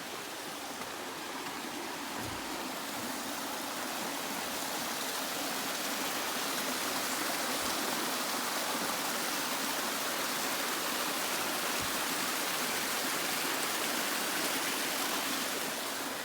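Steady rushing of the cascading water of Crabtree Falls' mountain creek, an even hiss that swells a little in the middle.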